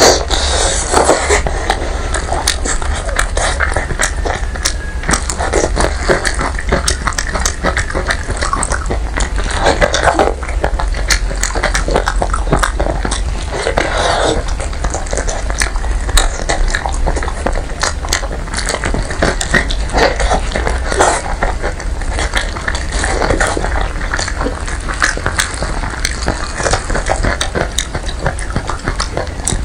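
Close-miked eating sounds of a person biting and chewing braised pig's trotter: continuous chewing and lip-smacking with many small wet clicks, over a steady low hum.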